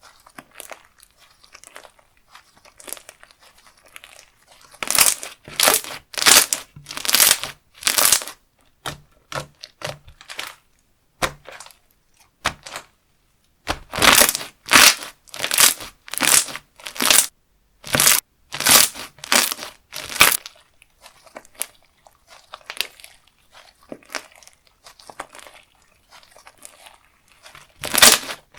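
Hands squeezing and pressing slime, making runs of loud crackling, crinkly squishes, a bit more than one a second, with softer fiddling in between.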